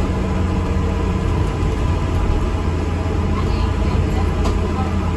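ADL Enviro 400 MMC double-decker bus under way, heard from inside: a steady low rumble of engine and road noise.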